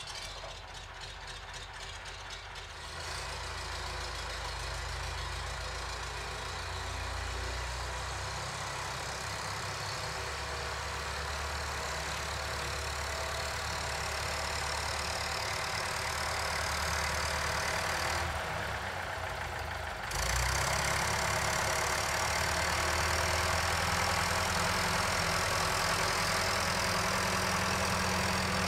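Old work vehicle's engine running steadily just after being started. About 20 seconds in it gets louder, as if throttled up.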